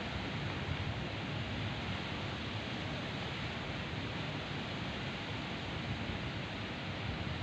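Steady rain: an even, unbroken hiss with a deep undertone.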